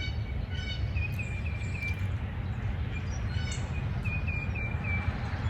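Outdoor morning ambience: a bird calls in short series of about four quick chirps, twice, over a steady low rumble.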